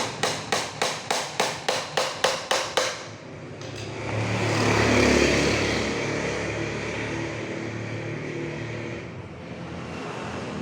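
A quick run of about a dozen evenly spaced hammer blows, three to four a second, nailing a wooden packing crate; it stops about three seconds in. A motor vehicle then passes, rising to a peak around five seconds in and fading.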